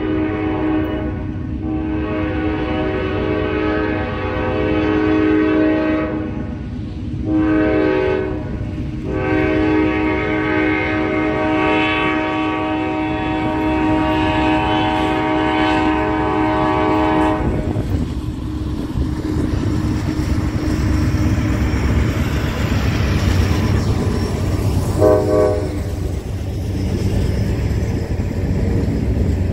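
Diesel freight locomotive's air horn sounding: a long blast, a short one, then a final long blast held for about eight seconds. It stops, and the train then rumbles past with rolling wheel and rail noise, broken by one short horn tap near the end.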